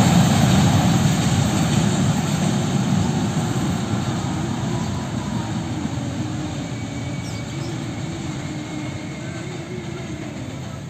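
Long train of fuel tank wagons rolling along the rails, its rumble and clatter fading steadily as the wagons draw away.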